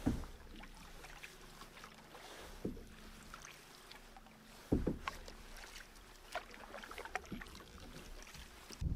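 Canoe being paddled on calm water: a few short splashes and knocks from the paddle, spaced one to two seconds apart, over a quiet background.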